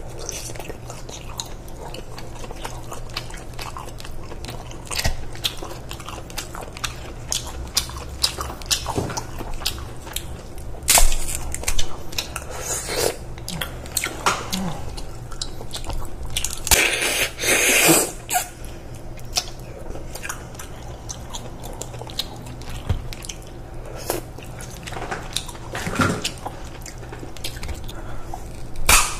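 Close-miked eating of cooked king crab: chewing and biting into the meat with many wet clicks and smacks, and a few louder crackling bursts, the longest about two-thirds of the way through.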